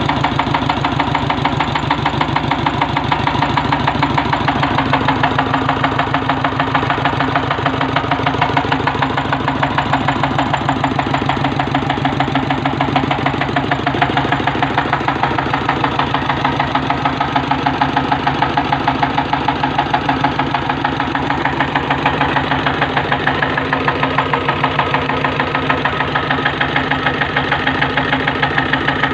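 Petter-type 'Golden' 32 hp diesel engine running steadily, its firing strokes making an even, rapid beat that holds without change.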